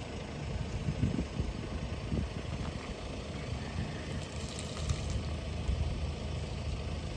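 Car engine running with a steady low rumble, with a few soft thumps.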